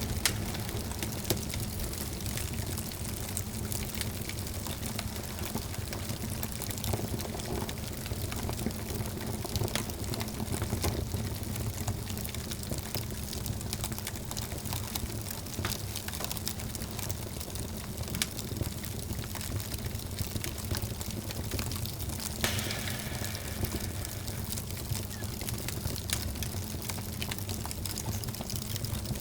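Wood fire burning in a fireplace: a steady low rumble of flames with frequent sharp crackles and pops. About 22 seconds in, a louder hiss starts suddenly and fades slowly.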